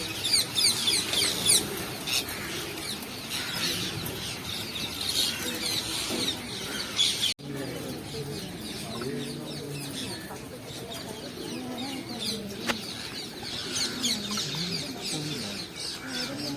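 A large flock of parrots screeching: many short, shrill calls overlapping one another. An abrupt cut comes about seven seconds in, after which the calls are sparser.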